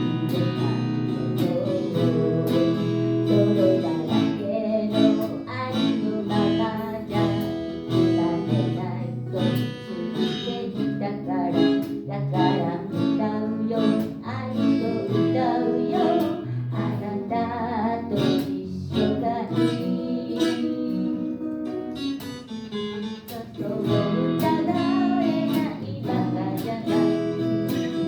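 A song played on strummed acoustic guitar with a voice singing along.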